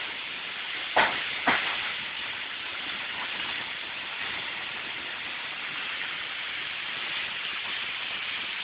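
Heavy rain pouring in a steady hiss, with two sharp knocks about a second in.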